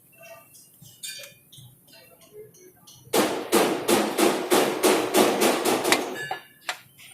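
Hammer striking metal: faint clinks at first, then about three seconds in a fast run of ringing blows, about four or five a second, that tails off into a few lighter knocks.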